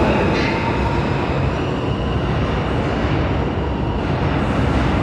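New York City subway train running through the station, a steady loud rumble of wheels and cars on the rails with a faint thin wheel squeal in the first second or two.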